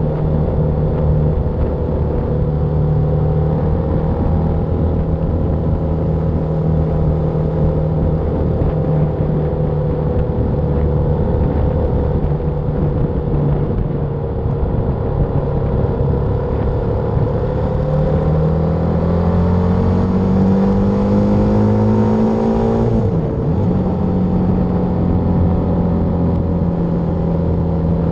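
BMW G310R's single-cylinder engine running on the road, mixed with wind rush. About two-thirds of the way in, the engine pitch climbs steadily for several seconds, then drops suddenly and settles back to a steady note.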